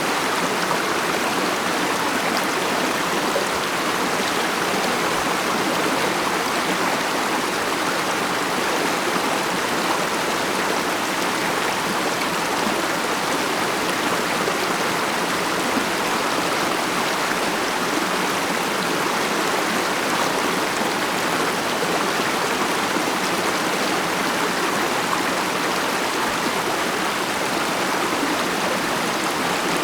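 Mountain stream flowing over rocks: a steady, unbroken rush and murmur of running water.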